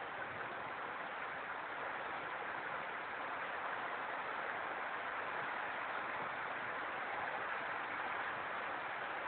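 Heavy rain pouring down steadily, a continuous even hiss with no breaks.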